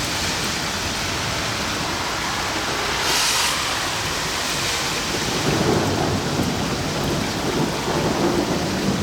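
Steady rain falling in a summer thunderstorm, with a low rumble of thunder coming in from a little past halfway.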